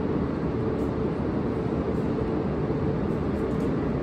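H5 series shinkansen standing at the platform with its on-board equipment running: a steady, even hum with a faint constant tone.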